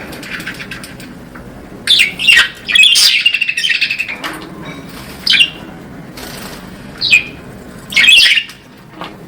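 Budgerigars chirping: a run of rapid chattering calls about two to four seconds in, then three more short, sharp calls.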